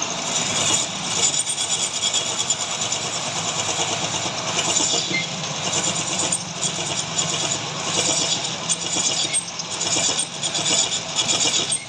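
Metal lathe running, a steady mechanical noise with a fine rapid flutter.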